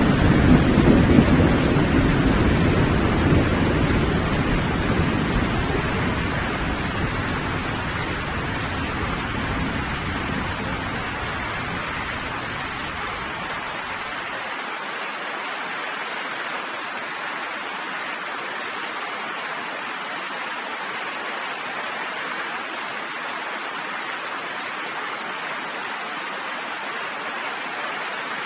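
Steady rain with a low rumble of thunder at the start that rolls away and dies out about halfway through, leaving only the even hiss of falling rain.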